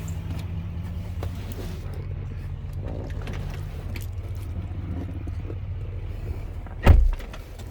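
2019 Chevrolet Silverado 3500HD's 6.6-litre Duramax V8 turbo diesel idling with a steady low hum. One heavy thump comes about seven seconds in, and the hum is quieter after it.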